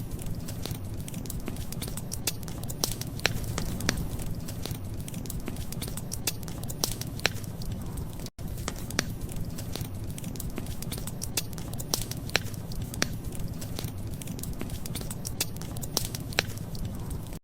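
Wood fire crackling, with frequent irregular sharp pops over a steady low rumble. The sound cuts out for an instant about eight seconds in.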